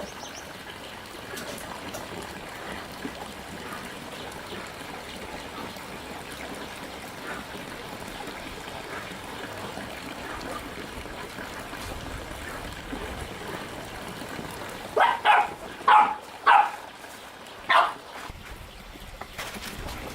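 A dog barks about five short barks in quick succession near the end, over a steady trickle of running water.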